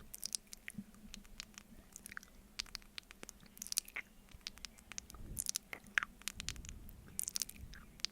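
Close-miked mouth sounds of eating honey from a spoon: sticky, wet clicks and smacks coming irregularly, several a second at times.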